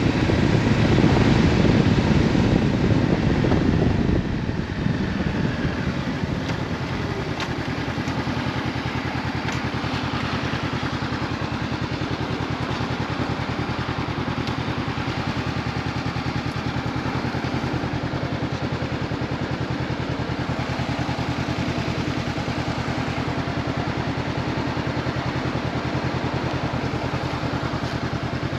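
Honda CB500F's parallel-twin engine through an Akrapovic exhaust, loud for the first few seconds, then dropping about four seconds in to a steady, even, low running that sounds like idling.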